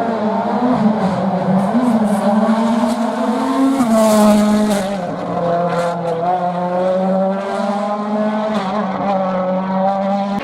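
A 2021 World Rally Car's turbocharged 1.6-litre four-cylinder engine at full throttle on a rally stage. It holds a high, near-steady note for the whole stretch, dipping slightly around two seconds in and again about five seconds in, with short crackles and some tyre noise.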